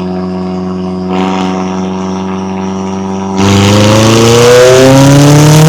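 McLaren 570S twin-turbo V8 running steadily at low revs, then about three and a half seconds in the throttle opens: the exhaust gets suddenly louder and the revs climb, the pitch dropping briefly at a gear change before rising again.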